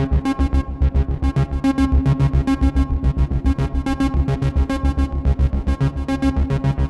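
Behringer TD-3-MO acid bass synthesizer playing a fast arpeggiated pattern: a steady, rapid stream of short, bright, buzzy bass notes.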